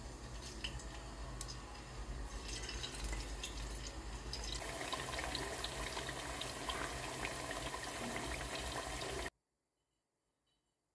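Water running from a tap, with small clinks and knocks over it. It gets louder a little over four seconds in and cuts off suddenly about nine seconds in.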